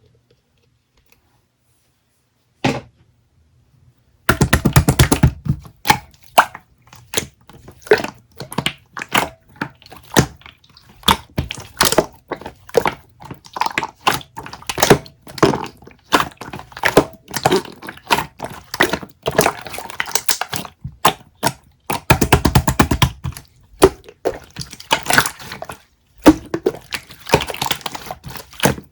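Close, irregular clicks and crunches, several a second, with two longer rattling crunches about four seconds in and again around twenty-two seconds.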